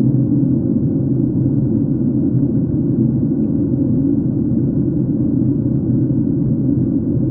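Airliner cabin noise in flight: a steady, even rumble of engines and airflow heard from a window seat.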